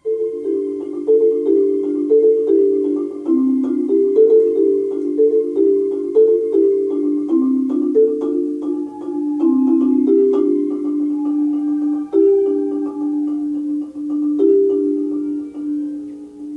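Marimba played with four mallets, starting abruptly with a quick, busy pattern of repeated struck notes, then moving to longer held notes in the second half.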